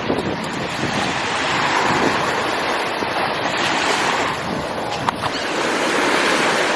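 Ocean surf washing up on a beach, a steady rushing of breaking waves, with wind buffeting the microphone.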